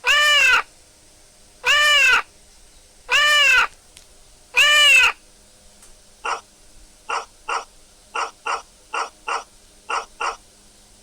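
Animal calls: four drawn-out calls that rise and fall in pitch, about a second and a half apart, then a quick run of about a dozen short calls.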